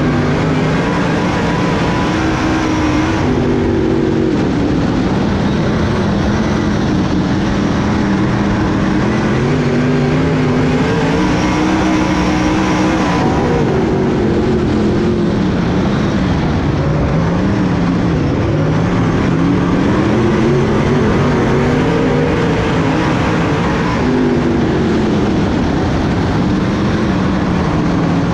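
Dirt-track race car engine running at speed around the oval. Its pitch climbs on the straights and drops into the turns, over and over.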